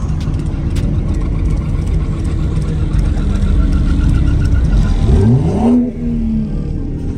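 Car engine running loud, then revved hard about five seconds in: the pitch rises steeply, holds high for about a second, then falls away.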